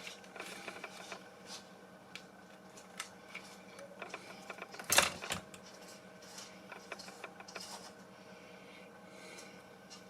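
Scattered light clicks and rubbing of small objects being handled, with one louder sharp clack about five seconds in, over a faint steady hum.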